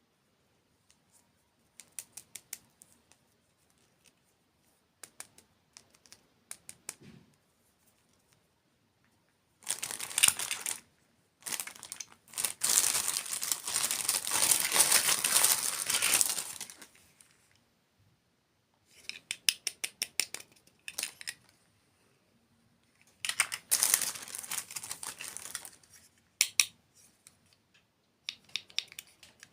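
Close-miked ASMR dessert-mukbang crinkling and crackling. Short runs of quick, sharp clicks come between two longer stretches of dense, crisp crackle, the first lasting several seconds from about a third of the way in and the second shorter one later on.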